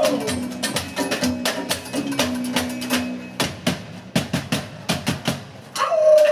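Live percussion beaten on construction materials such as wood: a quick, dense run of sharp knocks over a held low note. A loud sliding tone comes in near the end.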